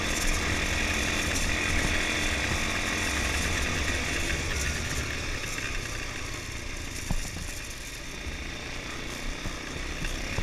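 ATV engine running steadily while riding, its sound easing off somewhat after the middle, with a single brief knock about seven seconds in.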